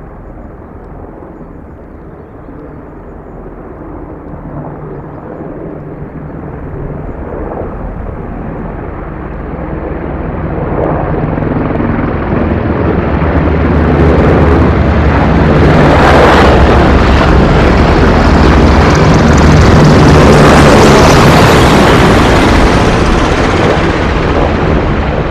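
Three RAF helicopters flying low overhead: steady rotor and engine noise that swells over about fifteen seconds, stays loudest for several seconds, then eases slightly near the end.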